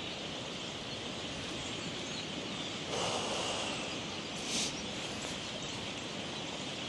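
A large flock of birds passing overhead, a steady mass of distant calls over an even outdoor hiss, with a brief rustle about three seconds in.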